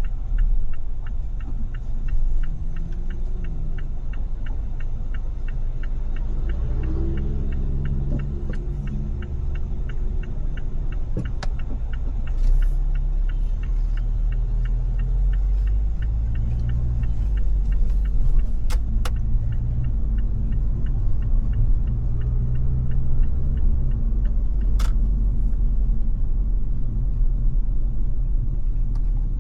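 A car driving in city traffic: a steady low road and engine rumble, with engine notes rising briefly a few times. A light, even ticking runs through the first half, and a few sharp clicks come later.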